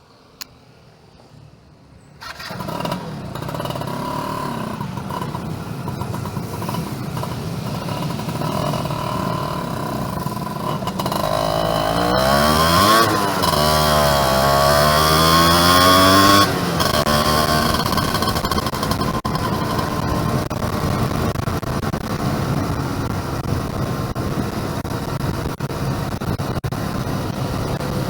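Yamaha F1ZR two-stroke motorcycle engine running. It comes in abruptly about two seconds in, and its pitch drops and climbs again around the middle, where it is loudest.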